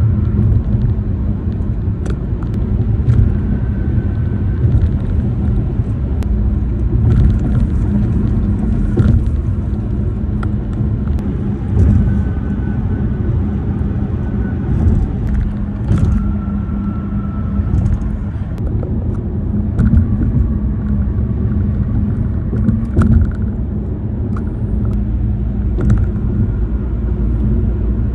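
Car tyres rumbling over road and bridge pavement, heard from inside the car, with scattered sharp clicks and rattles from the phone mount and interior plastics, which the uploader puts down to freeze-thaw damage.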